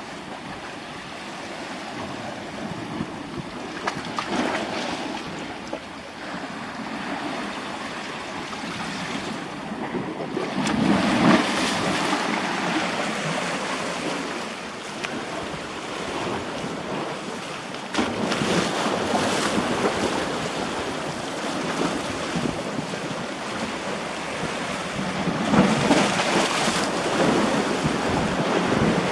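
Rushing noise of wind and water, swelling and easing every few seconds.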